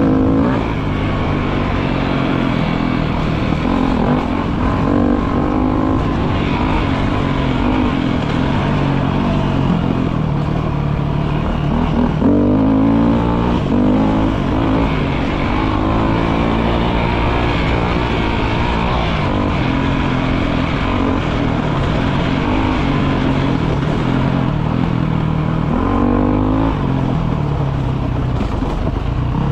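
Off-road motorcycle engine running while riding on a gravel road, its pitch rising several times as it accelerates and dropping back between, over a steady rush of noise.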